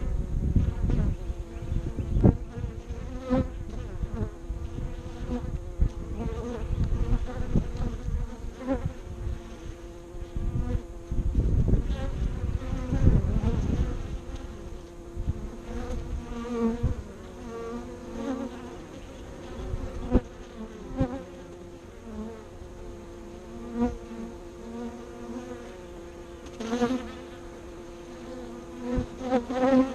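Honeybees buzzing at the hive entrances: a steady hum, with single bees buzzing close past, rising and fading every second or so.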